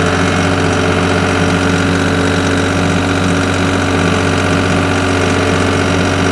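Skid steer engine running steadily, with an even hum and no change in speed.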